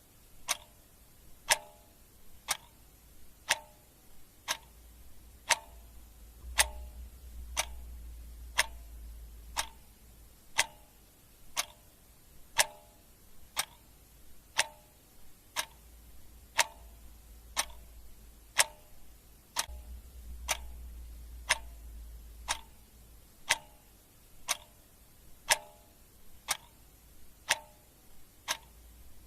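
Clock ticking steadily at about two ticks a second, alternating louder and softer strokes in a tick-tock rhythm, over a faint low hum.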